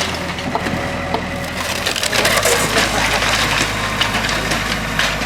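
Wooden building timbers cracking and splintering as they are crushed in a demolition, over the steady hum of a working machine's engine; the crunching grows denser about two seconds in.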